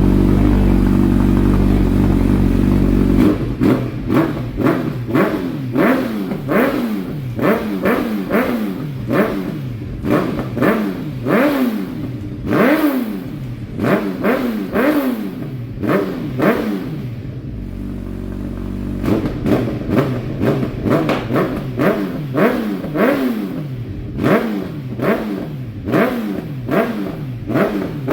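Suzuki Hayabusa's inline-four engine revved over and over in quick throttle blips, each rising and falling in pitch, about one a second. The first few seconds are a steady loud drone, and there is a brief steadier stretch about two-thirds of the way through.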